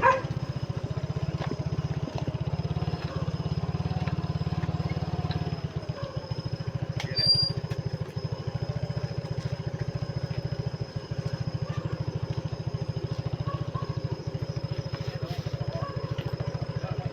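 A small engine running steadily, its engine note easing slightly about six seconds in, with one brief knock about seven seconds in.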